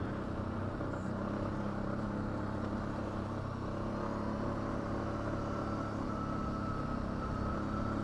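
ATV engine running steadily under way, with a faint thin whine joining about halfway through.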